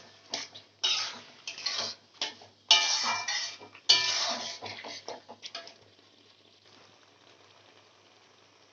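Metal utensil clanking and scraping against a cooking pan as chicken pieces are added to the masala: a run of clatters with brief metallic ringing over the first six seconds, then only a faint hiss.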